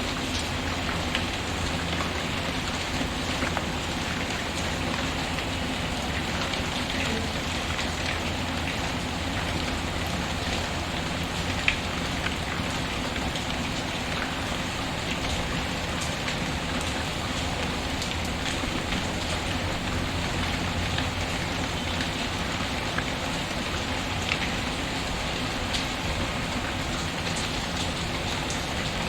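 Steady rain mixed with a crackling wood fire: an even hiss of rain with scattered sharp pops, one louder pop about twelve seconds in.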